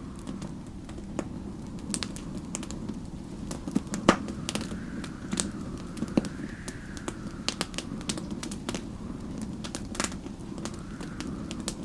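Wood fire crackling with irregular sharp pops over a steady low rumble, the loudest pop about four seconds in. A faint whistling of storm wind rises and falls in the middle and again near the end.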